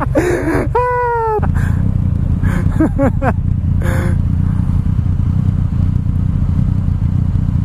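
Steady low rumble of a motorbike and the wind while riding. About a second in there is a short, high, drawn-out vocal call, with a couple of brief voice sounds a few seconds later.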